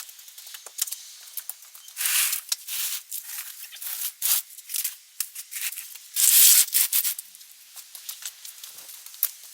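Close rustling and rubbing with many small clicks, like foliage and ties being handled. Two louder rustles come about two and six seconds in.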